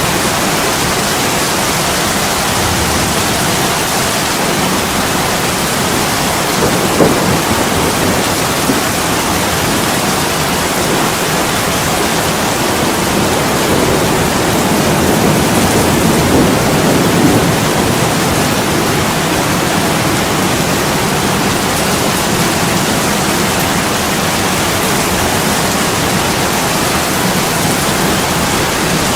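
Heavy rain pouring on a window pane: a steady, even hiss of falling rain, swelling slightly about halfway through.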